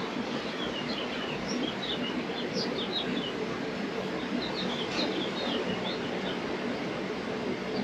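Small birds chirping: quick runs of short high notes in two spells, over a steady background noise with a low hum.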